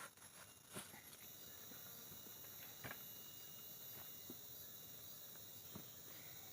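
Faint, steady insect chorus of high, continuous trilling, with a few soft clicks about a second, three seconds and six seconds in.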